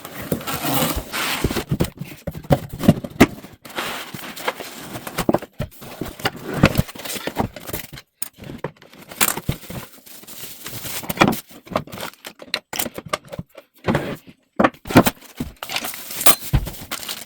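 Unboxing a packaged bird feeder: cardboard box flaps and packaging scraping, rustling and crackling, with irregular knocks and clatter as the parts are lifted out.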